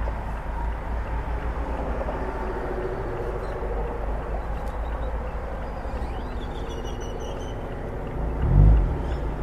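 A 2016 Mazda MX-5 Miata's four-cylinder engine and Goodwin Racing RoadsterSport race exhaust, heard from the driver's seat, running at low steady revs. Near the end the revs rise briefly and fall again.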